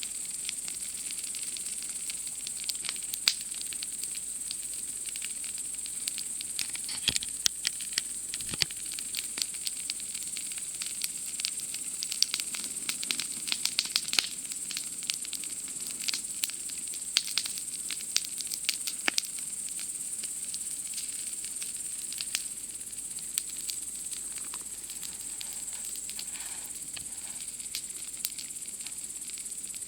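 Wood campfire crackling, with frequent sharp pops and snaps that come thickest through the middle, over a steady high-pitched chirring of night insects.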